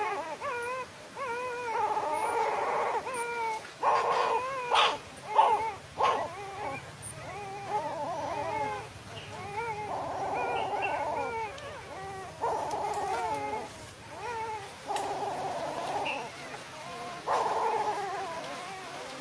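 Dogs whining and whimpering: a string of high, wavering whines, each about a second long, with a few short sharp yelps in between.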